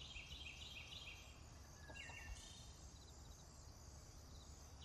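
Faint background track of birds chirping, a run of quick repeated high notes at the start and a short lower call about two seconds in, over a steady low rumble.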